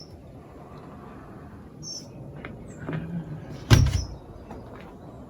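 Several sharp knocks and clicks, the loudest a heavy thump about two-thirds of the way through, over a steady low rumble. A bird gives a short high chirp near the start and again about 2 seconds in.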